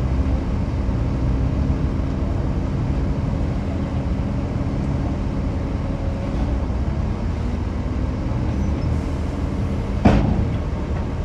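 Heavy earthmoving machine's engine running steadily at a constant pitch, with a single sharp bang about ten seconds in.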